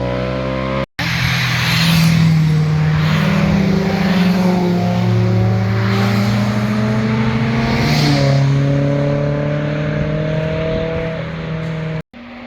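A performance car's engine and exhaust accelerating hard, its pitch climbing steadily with a gear change about eight seconds in. Two brief dropouts, about a second in and near the end, cut the sound off for an instant.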